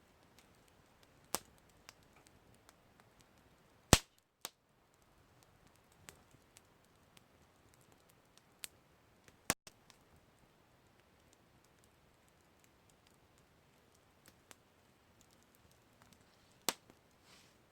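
Wood campfire crackling: scattered sharp pops and small ticks over a faint hiss, the loudest pop about four seconds in.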